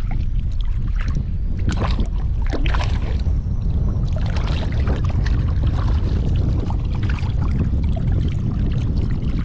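Strong wind buffeting the microphone, a steady low rumble, with many irregular short splashes and clicks over it.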